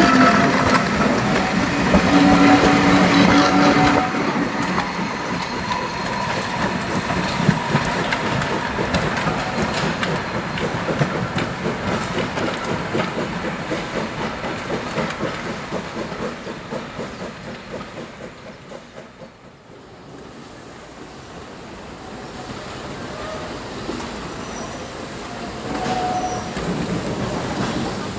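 Heritage-railway compartment coaches rolling past with their wheels clacking over the rail joints, the sound fading as the train draws away. After a cut near two thirds through, a steam-hauled train approaching, slowly getting louder.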